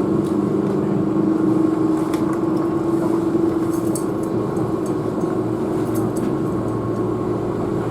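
Keihan electric train heard from inside the passenger car as it slows into a station: steady running noise with a droning motor tone, and a few light clicks in the middle.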